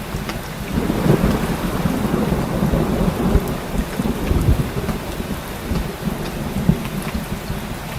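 Steady heavy rain, with scattered sharp drops, under a low rumble of rolling thunder that swells about a second in.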